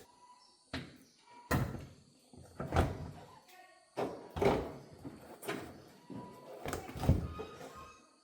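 Irregular knocks and clunks, about seven in eight seconds, of parts being handled during the disassembly of a car.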